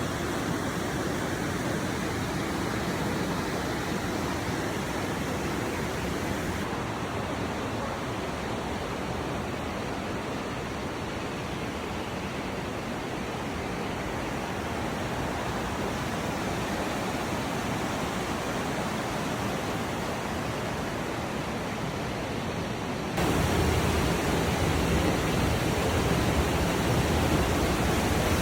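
Rushing water of a canyon stream, a steady roar of white water; about 23 seconds in it turns abruptly louder and deeper.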